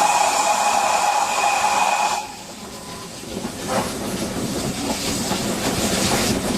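Steam locomotive whistle sounding with a hiss for about two seconds, then cutting off sharply. After it, the train's running noise on the rails builds back up.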